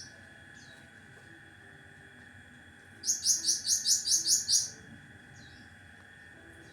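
Cucak ranting bird giving its sharp 'besetan' call: a burst of about ten rapid, high, harsh notes lasting under two seconds, midway through, with a faint single note before and after.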